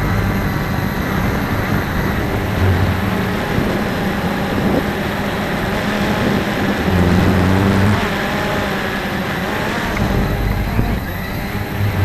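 Strong wind rushing and buffeting the microphone in low, uneven gusts. The Cheerson CX-20 quadcopter's motors are faintly heard, their pitch wavering as it fights the wind.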